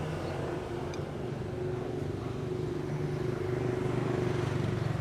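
Street traffic with a motor vehicle's engine running nearby, a steady hum that grows louder about four seconds in as it passes close.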